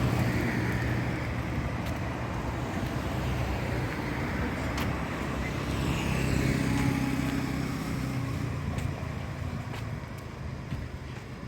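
Busy road traffic running close by: engines and tyres making a steady noise, with a heavier vehicle passing close about six seconds in.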